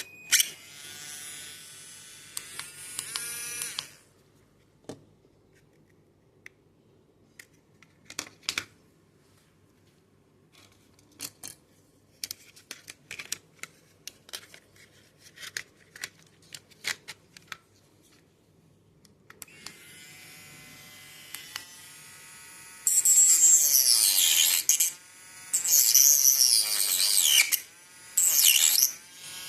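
Mini grinder (small electric rotary cutting tool) running with a steady whine, then stopping, followed by scattered clicks. It starts again about 20 s in and cuts into a Tamiya model part in three loud, rasping bursts, its pitch dipping each time the disc bites.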